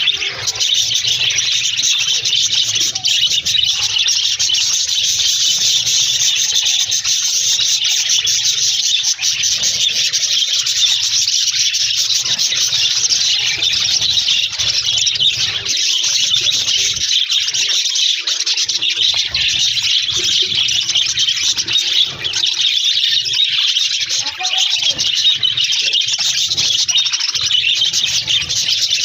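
A flock of budgerigars chattering and warbling continuously, many birds at once in a dense, high-pitched twitter.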